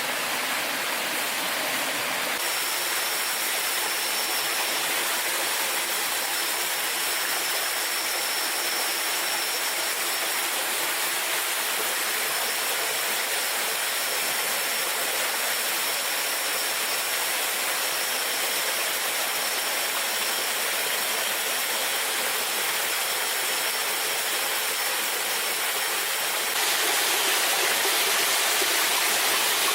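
Waterfall rushing steadily. A thin, steady high tone sits over it from about two seconds in until shortly before the end, when the water sound shifts and gets slightly louder.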